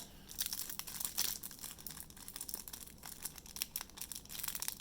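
Plastic trading-card pack wrapper crinkling and crackling as it is handled and cut open.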